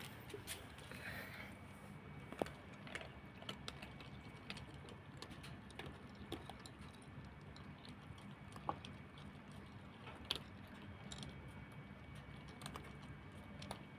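Cats crunching dry kibble: faint, irregular crisp clicks, with a few sharper cracks scattered through, over a low steady hum.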